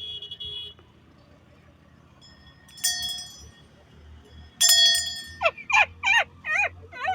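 Struck metal ringing, like a shrine bell: a short ring at the start, a clang about three seconds in and a louder one near five seconds. These are followed by a quick run of warbling, wavering calls.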